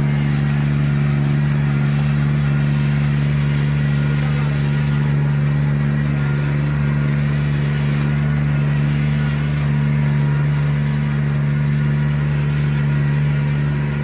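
Kubota rice transplanter engine running at a steady speed, a constant low hum that holds even throughout.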